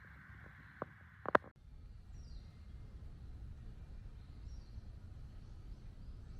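Wood fire crackling in a small fire pit, with sharp pops, the loudest a double pop about a second in. It cuts off suddenly to a low outdoor rumble with a few faint, short, falling bird chirps.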